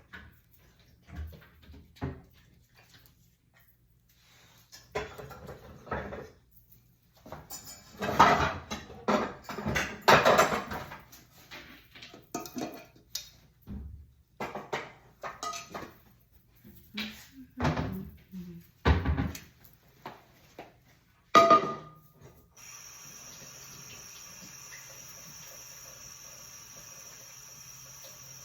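Pots and pans clattering with cupboard knocks while a pot of water is set up to boil. A sharp click comes about three-quarters of the way through, then a steady hum with a high whine.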